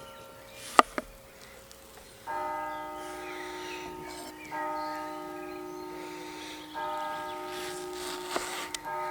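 A church bell tolling, struck three times about two seconds apart, each stroke ringing on and fading slowly. Two sharp clicks sound about a second in, before the first stroke.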